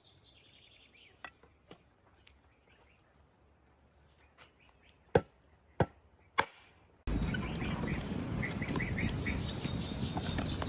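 Three sharp knocks about half a second apart in a quiet stretch. A little past the middle, a steady outdoor background cuts in suddenly, with birds chirping in short repeated calls.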